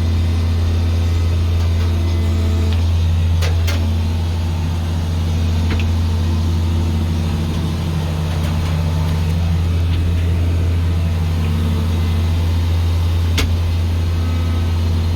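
A heavy farm-machine engine running steadily with a constant low drone, and a few brief clicks along the way.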